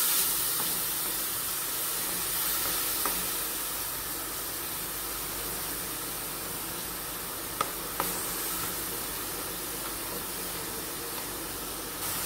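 Ground shallots, garlic and curry leaves sizzling in hot oil in a kadai, stirred with a wooden spatula: a steady frying hiss that slowly eases, with two sharp clicks a little over halfway through.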